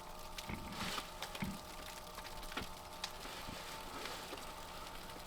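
Food sizzling and frying in a pan, a faint steady hiss with scattered small crackles and ticks.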